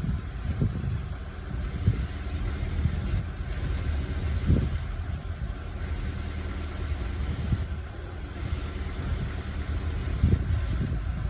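Heavy diesel engine of earth-moving machinery running steadily with an even low rumble. A few brief louder bumps come through it: about half a second in, around two seconds, around four and a half seconds and near the end.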